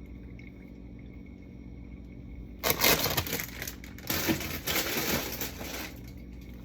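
Food containers and packaging being taken out and handled: two stretches of rustling and clattering, the first about two and a half seconds in, the second a little longer.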